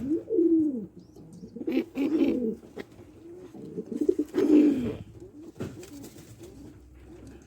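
Pigeons cooing, three low coos a couple of seconds apart, with faint clicks and rustles between them.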